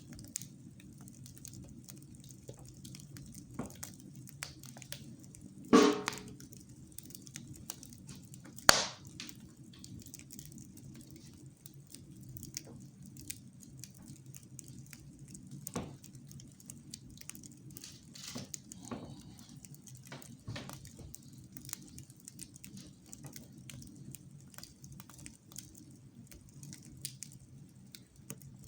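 Wood fire crackling in a fireplace, with scattered small snaps and two loud sharp pops about six and nine seconds in.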